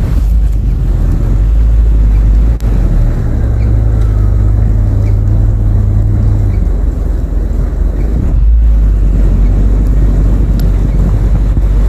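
Heavy wind rumble on the microphone in a snowstorm, with a vehicle engine running under it; a steady low engine tone holds for a few seconds in the middle.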